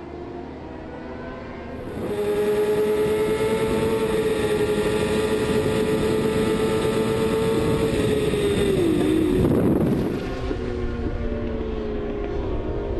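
Superbike racing motorcycle engine held at high revs on a steady note. It gets louder about two seconds in, its pitch falls and breaks up around nine seconds in, and a lower engine note carries on after.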